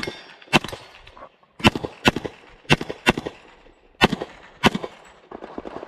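About eight pistol shots fired in quick pairs from an STI 2011 in .40 S&W, each pair about half a second apart, with short gaps between pairs as the shooter moves between targets.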